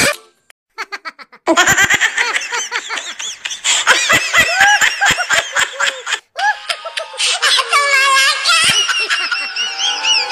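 High-pitched laughter in fast repeated ha-ha-ha syllables. It starts about a second and a half in, after a brief hush, and breaks off for a moment around the middle.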